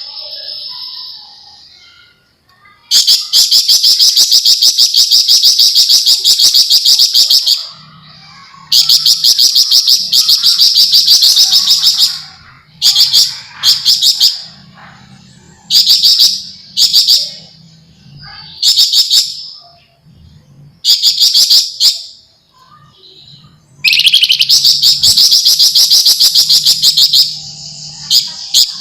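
Javan fulvetta (flamboyan) singing dense, very fast rattling trills, the 'ngebren nyerecet' chatter: long bouts of several seconds alternate with short bursts and brief pauses.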